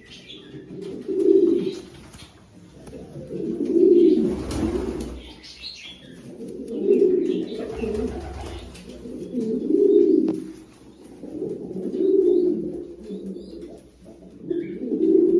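Fancy pigeons cooing, a low coo phrase repeating about every three seconds, with faint higher chirps in between.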